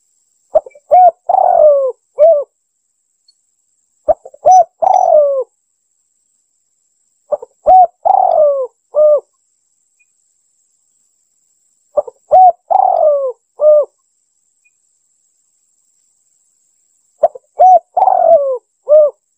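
Spotted dove (tekukur) cooing: five repeated phrases a few seconds apart, each made of a couple of short clipped notes, a longer coo that slides downward, and a short final note.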